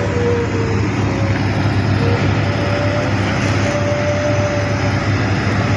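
Excavator carrying a vibro hammer running steadily as it travels on its tracks: a constant low engine drone with a thin, steady whining tone over it that dips slightly now and then.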